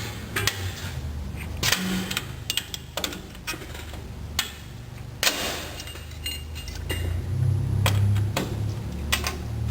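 Metal clinks and clanks of a brake spring tool prying the return springs off a drum brake's anchor pin. The knocks are irregular and scattered, over a low steady hum.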